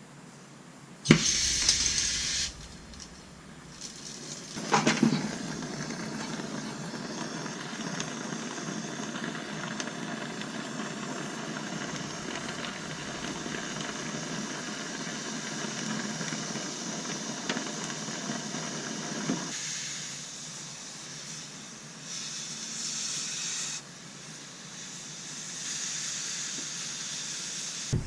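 Gas soldering torch hissing as it heats the copper refrigerant line: a sharp loud burst of hiss about a second in, then a steady hiss for about fifteen seconds, and shorter hisses near the end.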